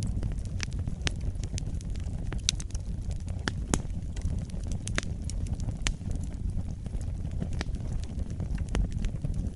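Fire burning in a fireplace: a steady low rush of flames with scattered sharp crackles and pops, several a second at irregular intervals.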